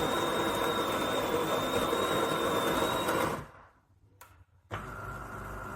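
The De'Longhi Dinamica Plus bean-to-cup machine's built-in conical burr grinder grinding beans for an espresso, a loud steady whir with a high whine that stops about three and a half seconds in. After a short hush with one click, a quieter, lower steady hum starts near the end as the machine moves on.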